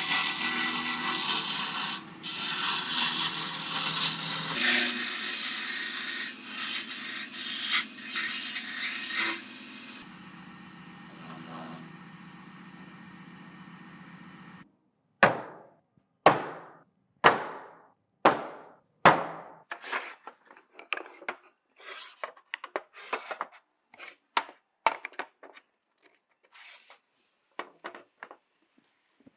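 An electric power tool works wood for about ten seconds, then runs on more quietly and stops. After a short pause comes a series of sharp knocks on wood, about one a second at first, then quicker and fainter.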